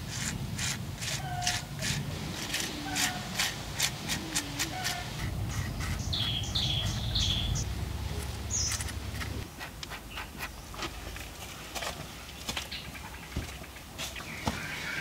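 Birds calling: a short, level call repeated a little more than once a second for the first five seconds, then a few quick, higher chirps about six to seven seconds in. Through it runs a string of sharp ticks, about two a second.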